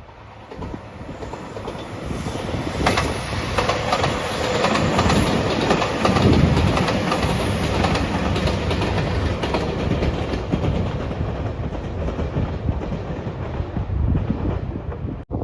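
A JR Shikoku 2700 series diesel train passing at speed, wheels clattering over the rail joints. The sound builds over the first few seconds and eases off toward the end.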